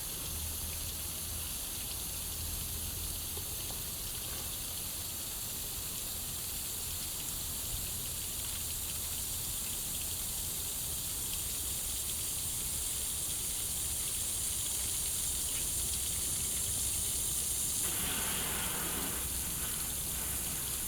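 A steady, even hiss with no distinct events, growing slightly louder in the second half.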